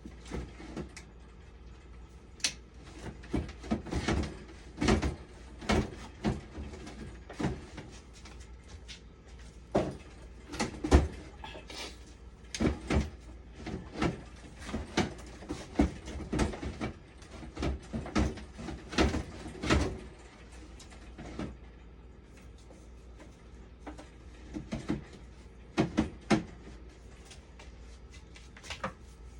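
Irregular knocks and clicks of tools and parts being handled while working on a dialysis machine, with a pause about two-thirds of the way through, over a steady low hum.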